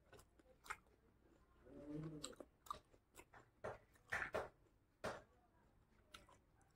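Close-miked chewing of fatty pork, with wet mouth clicks and lip smacks coming in scattered bursts. A brief hummed "mm" sounds about two seconds in.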